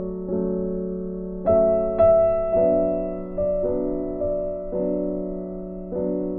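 Background music: slow piano or electric piano chords, each struck and left to fade before the next.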